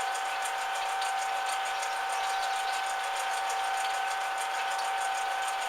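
Metal lathe running steadily, its motor and drive giving a constant whine with a fast, even pulsing from the turning spindle.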